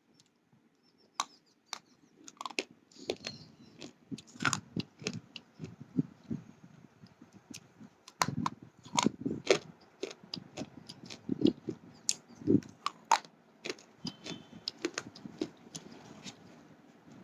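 Person biting and chewing hard slate pencils: irregular sharp cracks and snaps over a grinding, crunching chew, starting about a second in.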